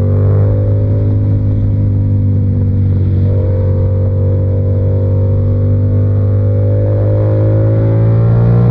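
Yamaha R7's 689 cc crossplane parallel-twin running through an SC-Project exhaust, pulling steadily in one gear. The engine note climbs slowly as the bike gathers speed, with a brief wobble about three seconds in.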